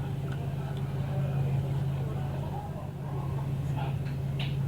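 Diesel railcar's engine running with a steady low hum while the train waits, faint voices in the background.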